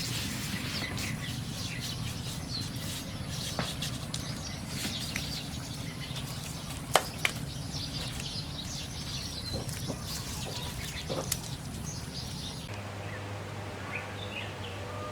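Birds chirping over a steady outdoor background, with a few sharp taps or clicks, the loudest about seven seconds in. The background changes abruptly near the end, where a steady low hum takes over.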